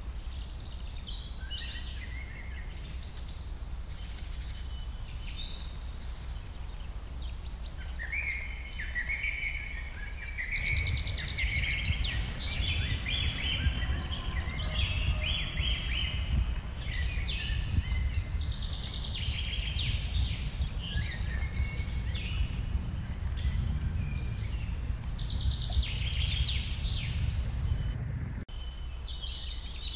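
Many small birds chirping and singing in quick overlapping phrases, over a steady low rumble that grows louder about a third of the way in.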